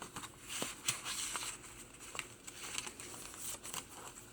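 Paper pages of a handmade journal rustling and crinkling as they are turned and handled, with a few soft taps.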